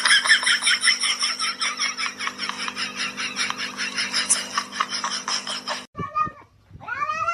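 Rapid, rhythmic laughing that goes on for about six seconds and cuts off suddenly. Near the end a cat gives a long, bending meow.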